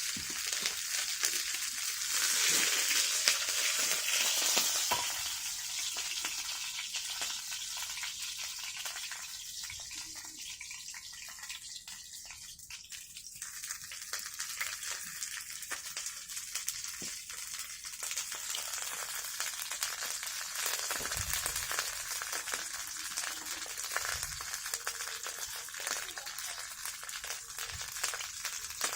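Food frying in a pan over a wood campfire: a steady sizzle with fine crackles, loudest in the first few seconds and easing off around the middle before settling.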